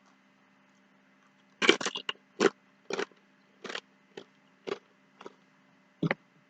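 A person chewing nachos close to the microphone: a run of sharp, short crunches about every half second, starting about a second and a half in, the first few coming in a quick cluster.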